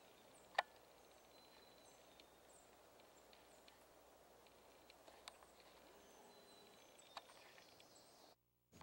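Near silence: faint outdoor ambience with a few short, distant bird chirps and three sharp clicks. The sound drops out completely for about half a second near the end.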